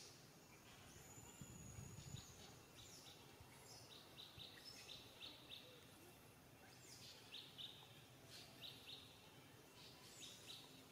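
Faint bird calls: quick runs of short, high chirps repeating, with a thin high whistle held for about a second near the start.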